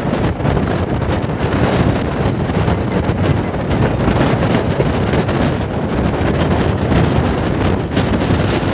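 Passenger train running at speed, heard from aboard a coach: a steady rumble of wheels on the track with wind buffeting the microphone. A sharp click about eight seconds in.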